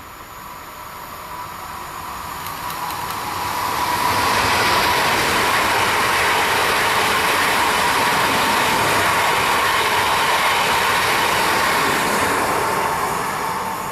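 Modern electric multiple unit passing at speed: wheel and rail noise grows as it approaches, stays loud for several seconds as the train goes by, then fades near the end. A steady high whine runs over the rolling noise.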